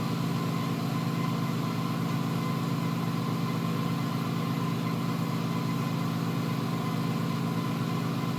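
A steady machine hum: a low drone with a faint high steady tone above it, not changing at all.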